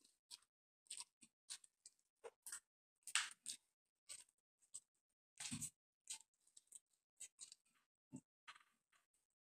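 Close-up mouth sounds of eating a chicken drumstick: short wet clicks and smacks of chewing and pulling meat off the bone, coming one by one with silent gaps between.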